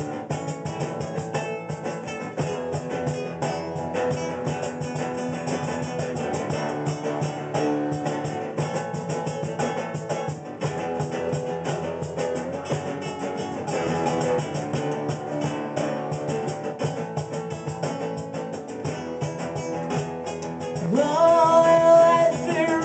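A live band playing an instrumental passage led by guitar. Near the end a voice comes in with long held notes.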